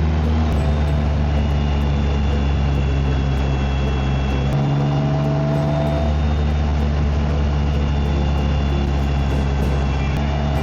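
BMW K1600GT motorcycle's inline-six engine and exhaust running steadily while riding, with road and wind noise. The engine note shifts about four and a half seconds in.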